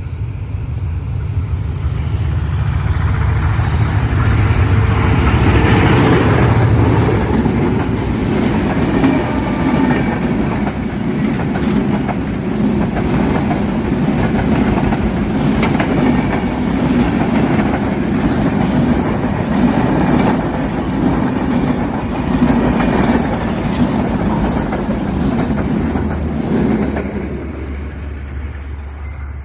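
A train running loudly, a steady rumble of wheels on rails that builds over the first few seconds and fades over the last two or three.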